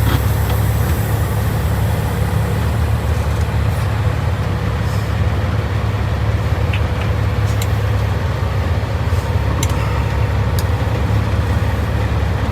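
Peterbilt 379's Caterpillar C15 diesel engine running steadily at low revs, a constant deep rumble, with a few faint clicks over it.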